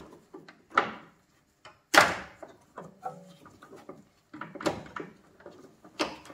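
Several sharp knocks and clatters of parts being handled and set down, with small clicks between; the loudest knock comes about two seconds in.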